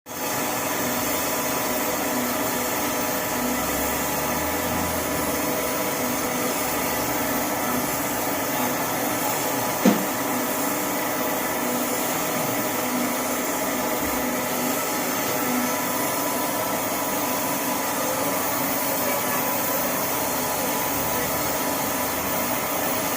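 Crankshaft grinding machine running with a steady whir and hiss, with one short sharp knock about ten seconds in.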